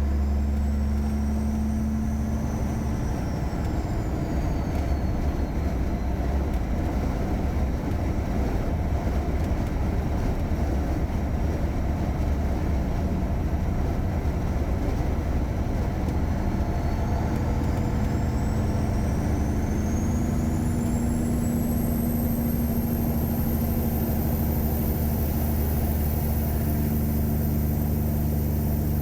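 Caterpillar 3406E inline-six diesel of a Freightliner Classic semi truck running steadily under way, with a high whine that falls away over the first few seconds and climbs again through the second half.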